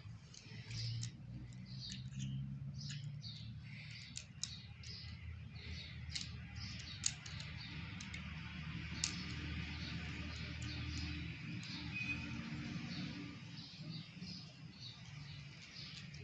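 Toy electric train running on its track: a steady low motor hum with many short high squeaks and a few sharp clicks.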